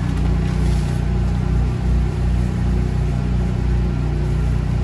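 A steady, low engine-like drone of a running motor, with a slight regular throb.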